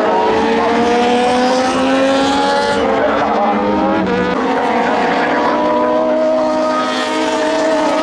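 Several Moto2 race bikes' Triumph 765 cc three-cylinder engines running hard together as they pass, their overlapping tones climbing in pitch as they accelerate, with a gear change about three seconds in.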